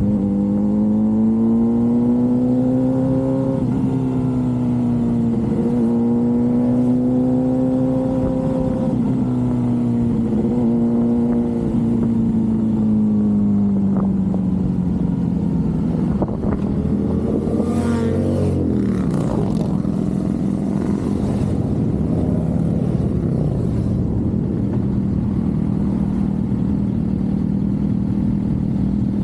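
Suzuki GSX-R750 motorcycle engine cruising at moderate revs, its pitch drifting gently up and down before easing off. About two-thirds of the way through there is a quick rev that rises and falls, and then the engine runs at a steady, lower pitch.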